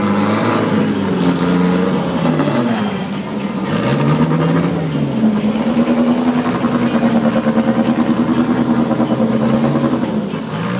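Drag car engine at the starting line, revved up and down several times, then held at a steady raised speed with an evenly pulsing note.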